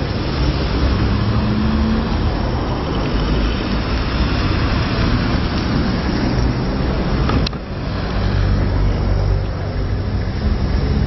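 City street traffic: car engines and tyres in a steady rumble, with a sharp click and a brief drop in level about seven and a half seconds in.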